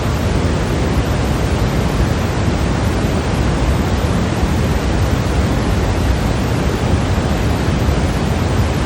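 Steady, unchanging white noise: an even hiss with the most weight in the low end, and no breaks or changes.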